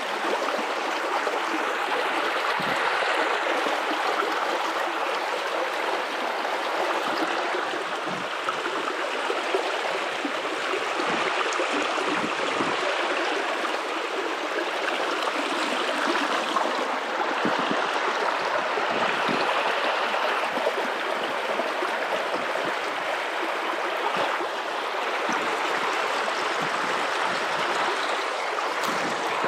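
River water running over rocks in a steady, even rush with small gurgles: the Guadalupe River flowing through shallows.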